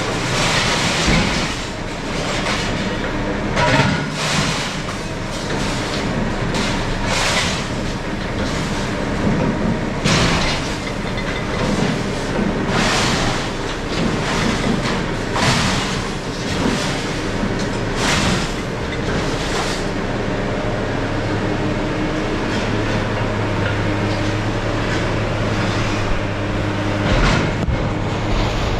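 Scrap metal dropped by a crane into a truck's bed, crashing and clattering about every two to three seconds. The impacts thin out after about twenty seconds, and a steady low engine hum comes up beneath them near the end.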